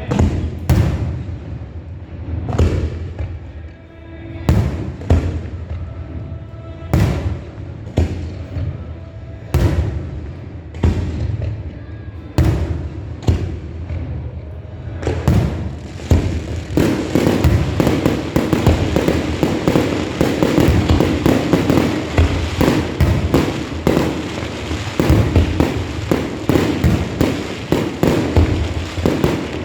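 Fireworks display: separate aerial shell bursts, each a sharp bang, go off a second or two apart for about fifteen seconds. Then a dense barrage of rapid crackling bursts follows without a break.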